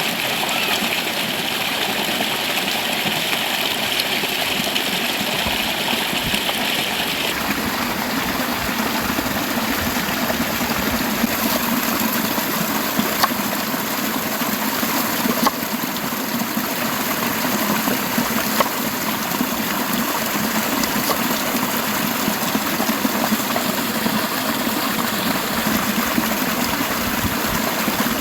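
Steady rushing of a flowing river, its tone shifting abruptly twice, with a few faint ticks over it.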